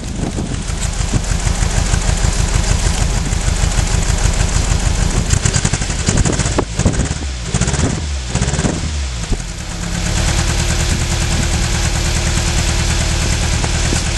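1996 Nissan Almera's 1.4-litre four-cylinder petrol engine running unevenly with a bad misfire, its exhaust pulsing and popping. Around the middle it is revved up and down a few times, then it settles back to a rough idle.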